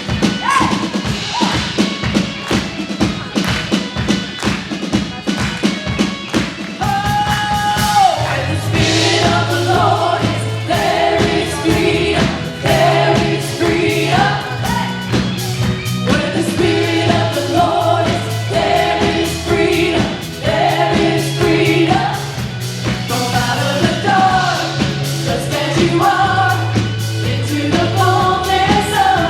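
Christian worship music from a band with singing. Drums play throughout, and about eight seconds in a steady bass line and sung melody join them.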